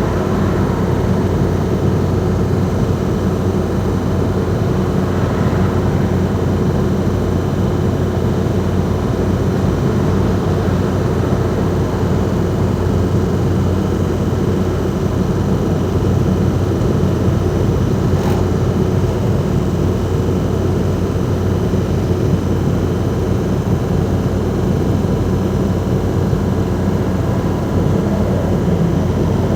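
Ford Transit Mk5 van's 2.5-litre 'banana' diesel engine running steadily on the move, with no change in engine speed.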